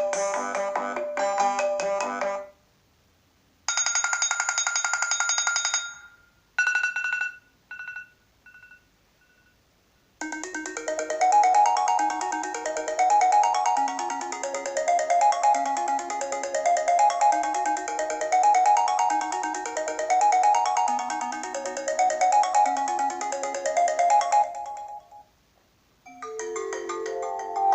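iPhone ringtones played one after another. One ends about two seconds in, and a short bright chime at about four seconds rings out in fading echoes. From about ten seconds a long ringtone of repeating rising arpeggios plays until near the end, and another begins just before the end.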